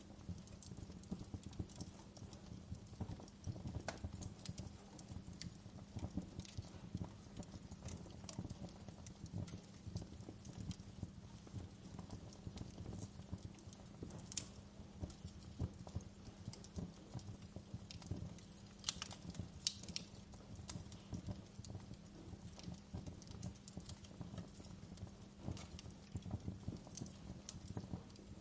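Fire crackling: a dense run of small, soft crackles with sharper pops now and then, and a few of them close together about two-thirds of the way in.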